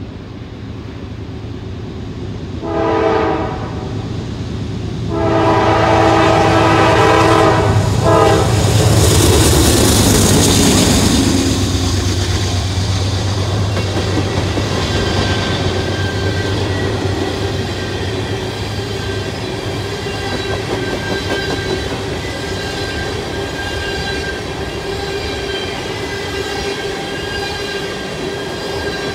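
Diesel freight locomotive horn sounds a short blast about three seconds in, then a long blast ending around eight seconds, the close of a grade-crossing signal. The Norfolk Southern C44-9W and SD70ACe locomotives then pass with a loud rush of engine noise and a low rumble, followed by tank cars rolling by with steady wheel clatter.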